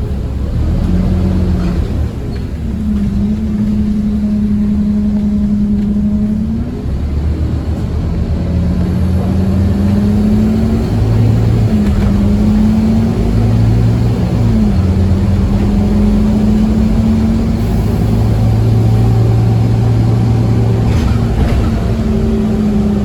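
Scania OmniCity bus's diesel engine pulling hard, heard from inside the bus. Its note climbs and drops back sharply at each gear change, several times, then holds steady at speed.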